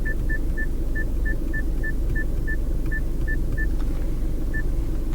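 Short, identical high beeps from the car's infotainment touchscreen, about three a second, the tone it plays to confirm each touch while a settings list is scrolled; they stop about three and a half seconds in, with one more a second later. Under them a steady low rumble fills the car's cabin.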